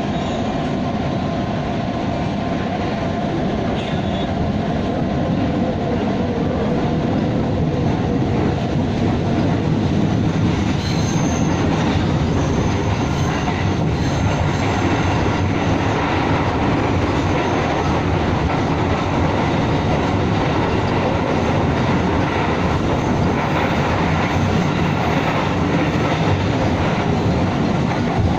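Electric commuter train heard from inside the carriage as it runs over station trackwork: a steady rumble of wheels on rails that grows a little louder about ten seconds in. A faint high wheel squeal comes in briefly soon after.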